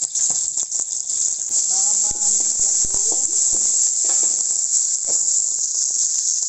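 Tomatoes and fresh and dried chillies sizzling in a little oil in a wok: a steady high hiss with small crackles. A metal spatula scrapes and stirs against the wok in the second half.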